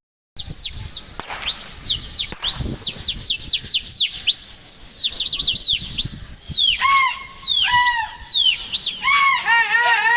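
A rapid series of high, arching whistled chirps, bird-like, starting abruptly after a brief dropout. In the last few seconds the chirps drop lower and run together into a fast warbling sequence.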